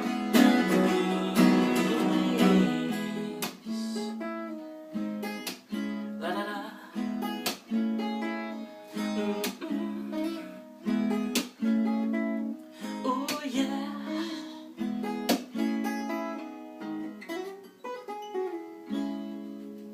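Acoustic guitar playing chords, struck again and again and left to ring between strokes; a last chord is held and fades out near the end.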